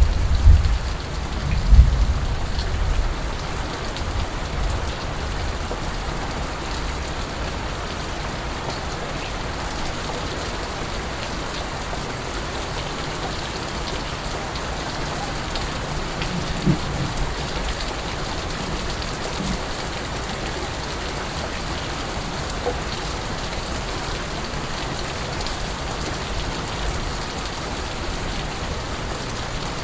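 Steady rain falling and pattering on surfaces, with a few short low thuds in the first couple of seconds and once more about halfway through.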